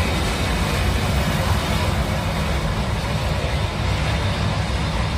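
Steady, loud rumble and hiss of an airliner's jet engines during the landing.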